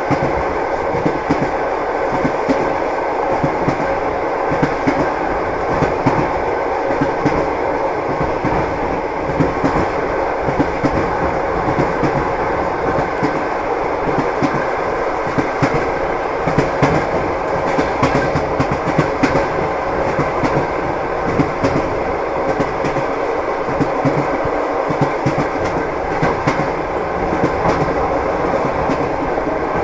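A moving train's wheels clacking over the rail joints, over a steady running rumble. Small clacks recur throughout.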